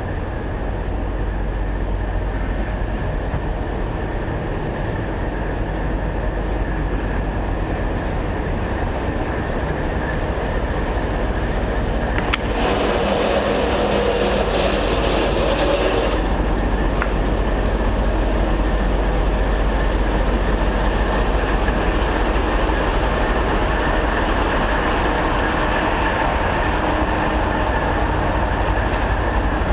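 A train running on rails, a steady rumble with wheel clatter. About twelve seconds in, a louder, brighter rush lasts about four seconds and then drops back.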